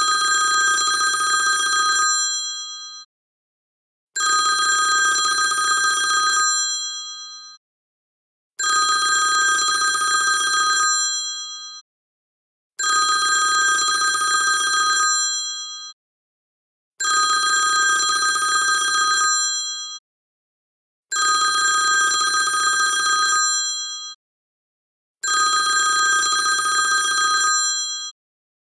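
iPhone ringtone of an old-style telephone bell ringing: a rapid trilling ring lasting about two seconds, repeated about every four seconds, seven times.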